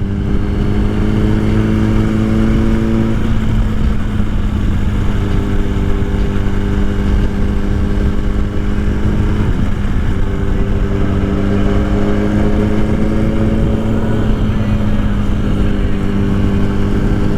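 Motorcycle engine running at a steady cruise, heard from the rider's seat with a low wind rumble on the microphone; the engine note holds nearly level, shifting slightly a couple of times.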